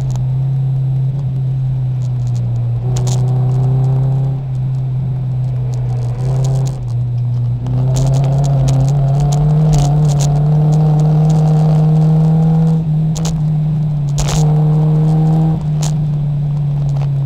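Nissan 240SX race car's engine, heard from inside the stripped cabin, running hard at lap speed. Its note rises and falls with throttle through the corners, and sharp clicks and rattles from the car break in a few times.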